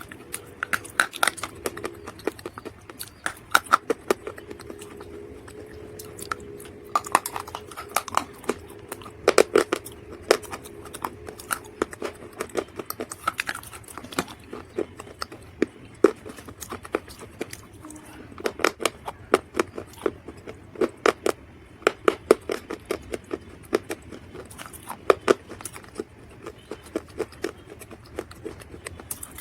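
Dry mud crunching and cracking: bursts of many crisp snaps in quick succession, with short pauses between the clusters.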